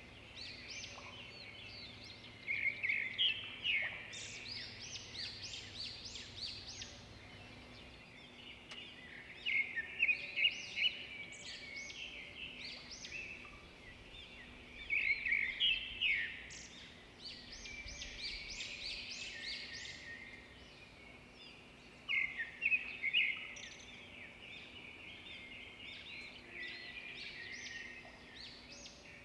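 Birds chirping in quick twittering runs, a burst every few seconds with quieter chirping between, over a faint steady hum.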